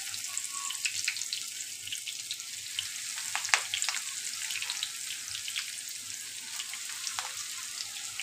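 Spinach-coated chicken rolls frying in hot oil in a pan: a steady sizzle with many small crackles and pops, one sharper pop about three and a half seconds in.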